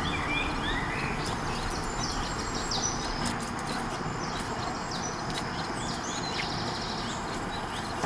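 Small birds chirping and twittering in quick short calls, over a steady rush of outdoor background noise.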